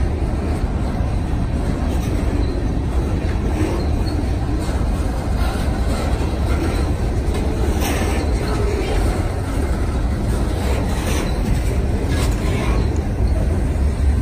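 Open-top freight cars of a passing freight train rolling by: a steady low rumble of steel wheels on the rails, with a few short clicks and clanks.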